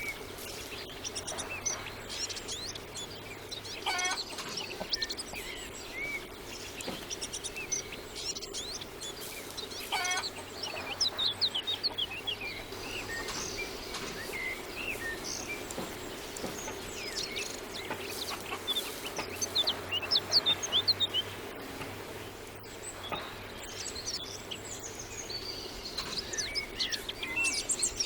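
Small birds chirping again and again, with chickens calling twice in the first half, over a faint steady hum.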